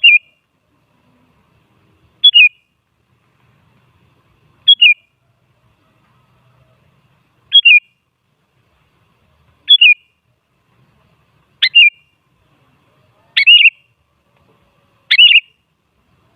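Sooty-headed bulbul (kutilang) giving short, sharp calls that drop in pitch. There are eight calls, one about every two seconds, coming a little quicker toward the end.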